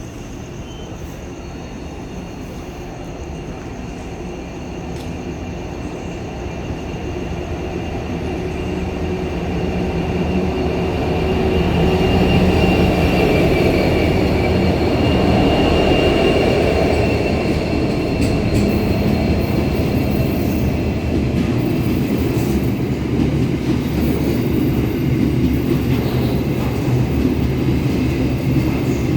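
Freight train hauled by two diesel locomotives, growing louder over the first dozen seconds as it comes closer, then running steadily as the train passes. A thin high wheel squeal rises over it in the middle.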